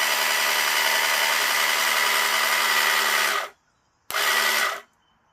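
Electric Auto Crane winch motor, wired straight to a battery with jumper cables, running steadily with a whirring whine as it reels the cable in, the motor freshly freed up. It stops about three and a half seconds in, then runs again briefly for under a second.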